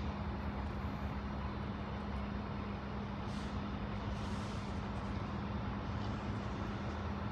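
A train standing at the platform, idling with a steady low hum, with faint brief hisses about three and four seconds in.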